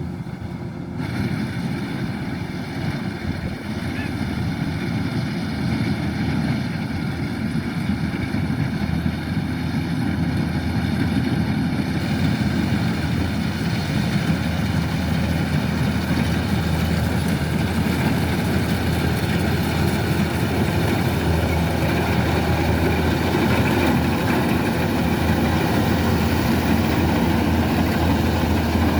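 Kubota DC-105X combine harvester's diesel engine and threshing machinery running steadily while it harvests rice, growing gradually louder.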